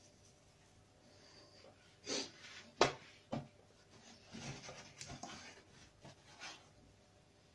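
Someone eating caramel-filled milk chocolate: quiet chewing and nose breathing. There is a sharp knock about three seconds in, and a run of short clicks and rustles after it.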